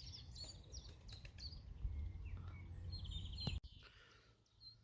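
Small birds chirping and twittering faintly over a low rumble. The sound stops abruptly about three and a half seconds in.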